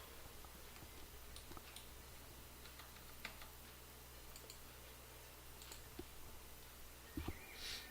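Faint, scattered clicks of a computer mouse and keyboard over a low steady hum, with a couple of louder low knocks and a short hiss near the end.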